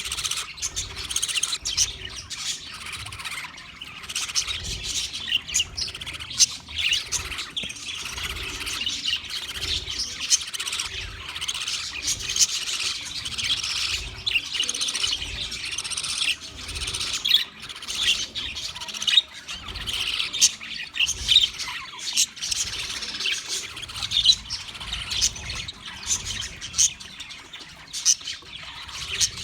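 Budgerigars chattering and chirping continuously, many calls overlapping, with scattered sharp clicks.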